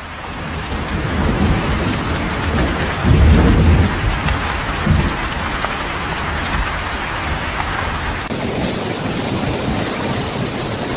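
Heavy rain pouring, swelling in over the first second or two, with a low rumble of thunder about three seconds in and a shorter one about five seconds in.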